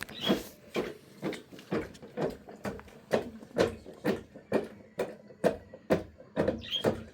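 Steady repeated knocks or strikes, about two a second.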